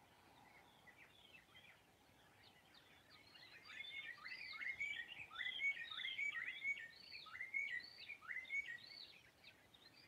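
Birds singing at sunrise. At first there are faint chirps. About three and a half seconds in, a louder song starts: a run of quick whistled notes, each sweeping up and down, about two a second, which eases off near the end.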